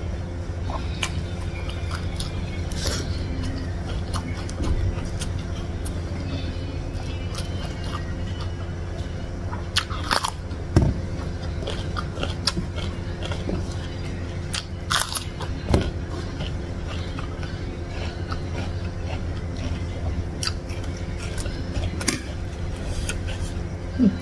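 Close-miked eating: wet chewing with scattered crunchy bites of raw vegetables, the loudest crunches about ten and fifteen seconds in, over a steady low hum.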